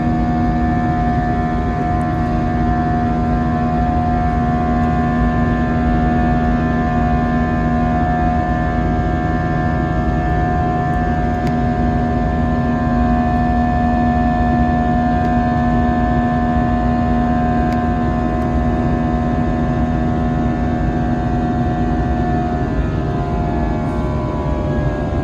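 Airbus A321 jet engines heard from inside the cabin during the climb after takeoff: a steady drone of engine tones over rushing air. Near the end the engine tones drop in pitch as the power changes.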